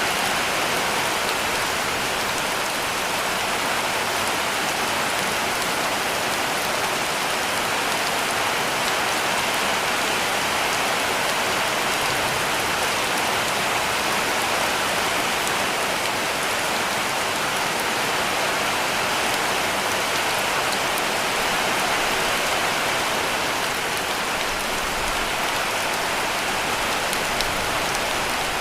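Heavy rain falling steadily on a cabin roof, an even hiss of many drops with fine scattered patters.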